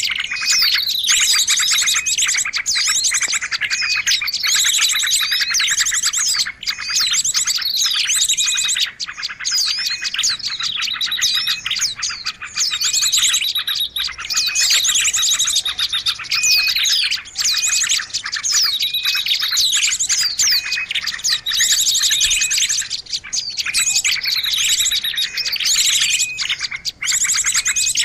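A busy, unbroken chatter of small songbirds, rapid high chirps and trills overlapping, played as a bird-luring (pikat) call recording to draw birds in.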